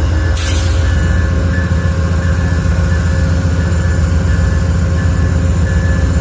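Amtrak train's diesel locomotive idling at the platform, a steady low engine hum with a short hiss about half a second in.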